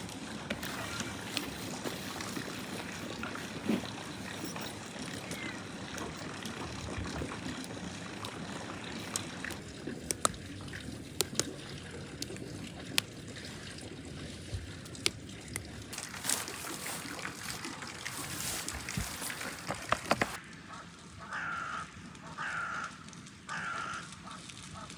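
Water running and sloshing, with scattered sharp clicks and knocks. About twenty seconds in the sound cuts to a quieter background with three short pitched sounds about a second apart.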